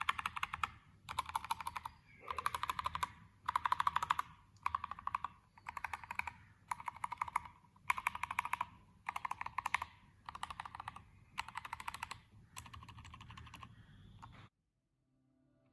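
Mechanical keyboard switches, tactile and linear, typed on a board with an acrylic plate: about twelve short bursts of rapid keystrokes, one after another with brief gaps between. The last burst is softer, fitting the silent linear switch at the end of the list, and then the typing cuts off.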